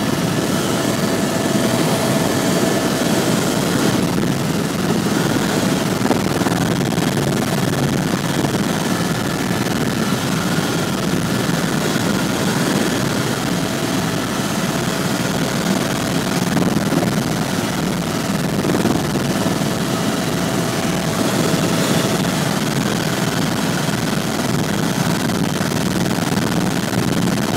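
Helicopter engine and rotor noise heard from inside the cabin: a steady, unbroken drone with a faint steady whine above it.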